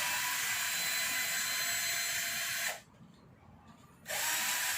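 Cordless drill/driver running at steady speed as it spins out engine bolts that have already been broken loose. It stops for about a second just past the middle, then runs again on the next bolt.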